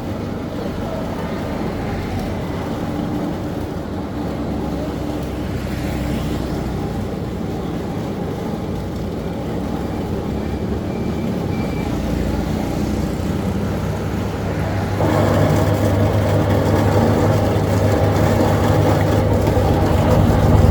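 A motor vehicle running steadily, getting louder about fifteen seconds in.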